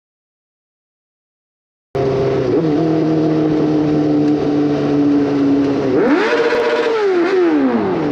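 Suzuki GSX-R600 K4 inline-four sport-bike engine through an SC-Project S1 race exhaust. It cuts in abruptly after about two seconds of silence and runs steadily, then rises in pitch about six seconds in and falls back near the end.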